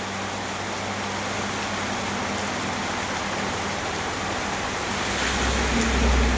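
Heavy rain pouring down steadily as a dense hiss. A low rumble swells in about five seconds in and peaks near the end.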